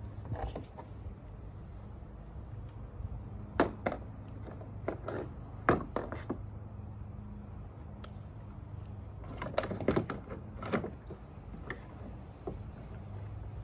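Scattered light knocks and clatters of objects being handled, in small clusters, over a low steady hum.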